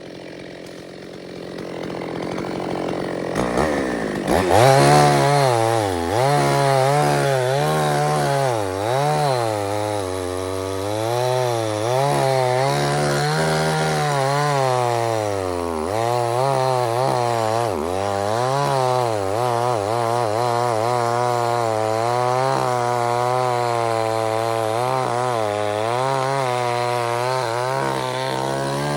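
Two-stroke chainsaw running while cutting, getting louder over the first few seconds, then its pitch dipping and recovering again and again as it works.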